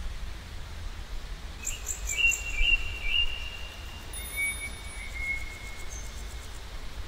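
Birds calling: a quick run of four or five short chirps about two seconds in, then a longer thin whistled note around the middle, over a steady low rumble.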